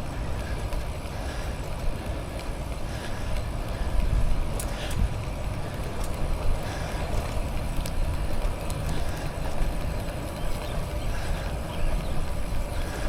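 Steady low rumble of wind on the microphone and bicycle tyres rolling on pavement during a ride, with a few faint clicks about four to five seconds in.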